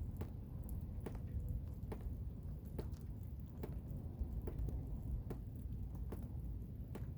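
Blizzard wind making a steady low rumble, with irregular sharp ticks and pats, about one or two a second, over it.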